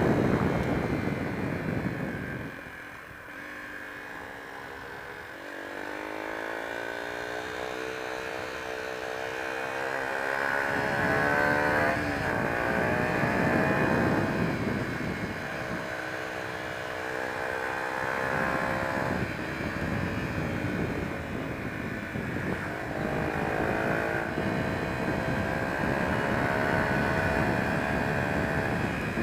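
Honda XR125's single-cylinder four-stroke engine running under way, its note rising and falling with the throttle and gear changes, with a steady rush of wind and road noise.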